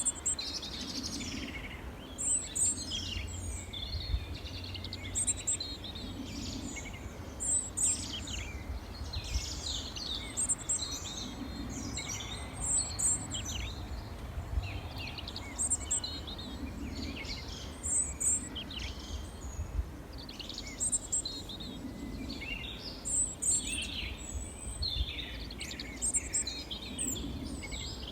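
Small songbirds chirping and twittering, several calls overlapping in a busy, continuous chorus of short high notes, over a low steady rumble.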